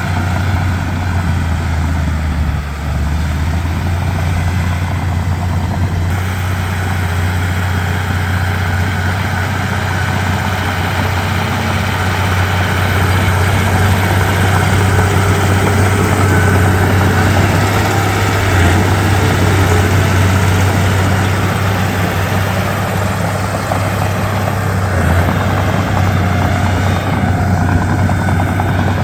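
Komatsu D31P bulldozer's diesel engine running with a steady deep drone, getting somewhat louder for a stretch in the middle.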